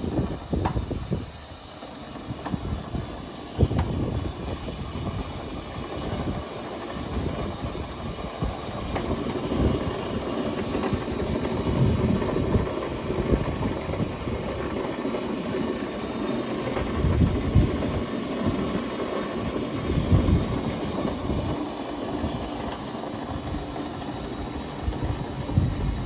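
FAMAD DOVB 130 two-roller glue applicator running, its motor and roller drive turning with a steady, uneven rumble and occasional sharp clicks.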